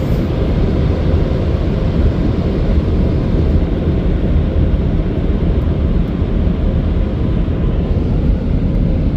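Car wash air dryer of a touch-free Washworld Razor blowing a steady loud rush of air over the car, heard from inside the cabin.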